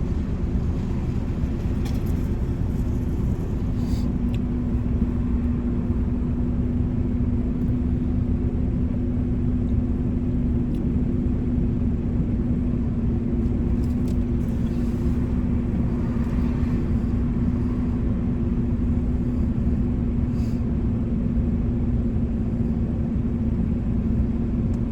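Car engine idling steadily, heard from inside the cabin as a low rumble with a constant hum.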